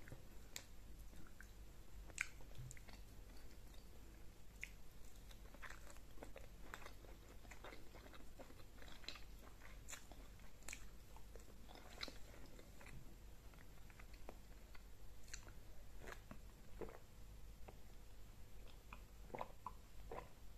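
A person chewing and eating egusi soup with fufu by hand: soft, irregular mouth clicks and chewing.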